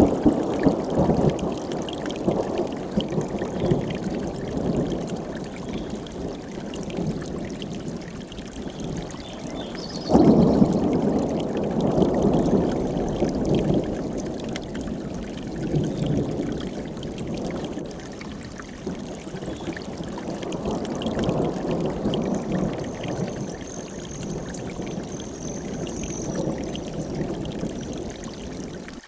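Mountain stream rushing over rocks, a steady churning water noise that swells and eases, with a sudden louder surge about ten seconds in.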